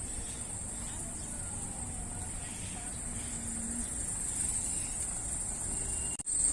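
Insects chirring steadily at a high pitch over a low background rumble.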